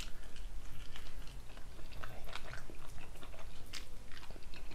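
A person chewing food close to the microphone: irregular small crunches and mouth clicks.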